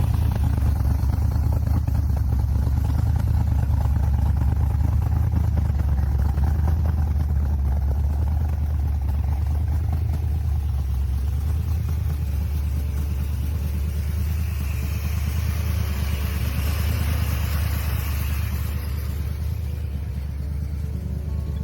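1976 Chevrolet Corvette Stingray's freshly rebuilt 350 cubic inch V8, fitted with a Comp Cams Mutha Thumpr camshaft, running steadily with a deep, rapidly pulsing exhaust note. A hissing noise rises alongside it for a few seconds about two-thirds of the way through.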